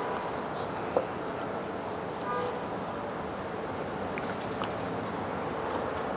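Steady traffic and street noise, with a brief car horn toot about two seconds in and a single sharp click about a second in.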